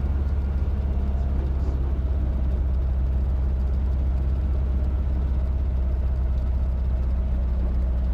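Robinson R22 helicopter running at a steady pitch: a constant low drone of the piston engine and rotor with a fine, even pulsing.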